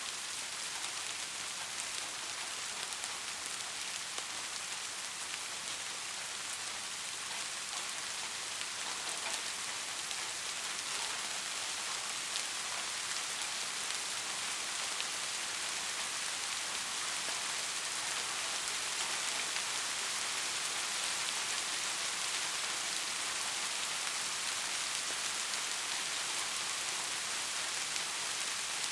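Steady rain falling, a dense even patter of many drops on a hard surface such as a roof, with no thunder in this stretch.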